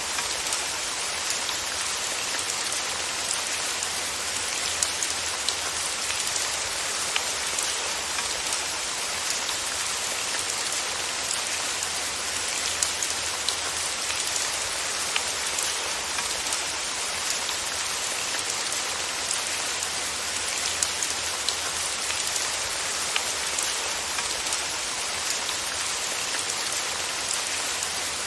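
Steady rain falling on a hard surface, an even hiss with scattered sharper drop ticks.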